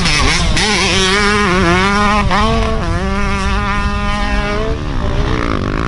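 Dirt bike engine under throttle, its pitch wavering and dropping briefly a few times as the rider works the throttle and shifts, over a heavy low rumble. The engine note fades out near the end.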